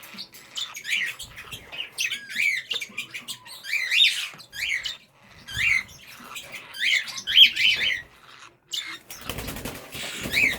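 English budgies chattering, a quick string of short chirps that sweep up and down in pitch. A brief rustling noise comes near the end.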